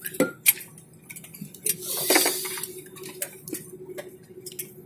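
Light clinks and clicks of small hard objects over a steady hum, with a brief burst of hiss about two seconds in.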